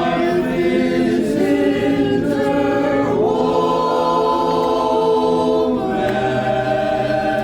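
Voices singing a four-part barbershop tag a cappella, holding full chords that shift together to a new chord a few times.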